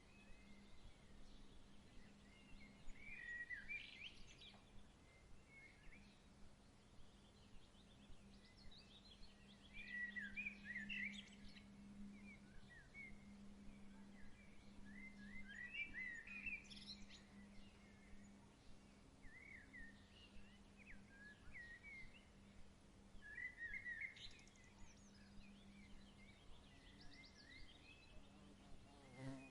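Faint birdsong: short chirping phrases repeated every few seconds, over a low steady hum.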